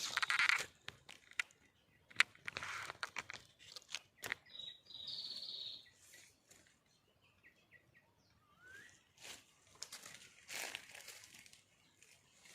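Intermittent rustling and crackling bursts with sharp clicks, and about four seconds in a high chirping bird call lasting about a second and a half, followed near nine seconds by a short rising whistle.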